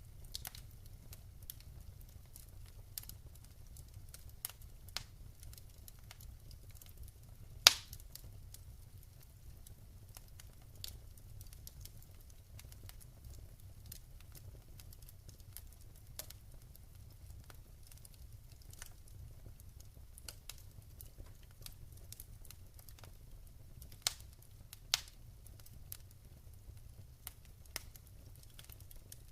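Wood fire crackling in a fireplace: irregular small snaps and pops over a low steady rumble. There is one loud pop about eight seconds in and two more near the end.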